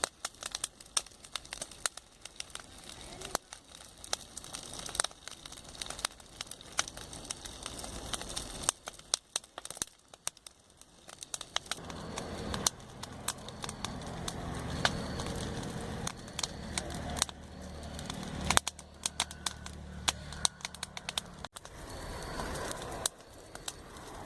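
Wood campfire crackling and popping with frequent sharp snaps. From about halfway a low steady hum, like a vehicle engine on the nearby road, joins in and cuts off abruptly near the end.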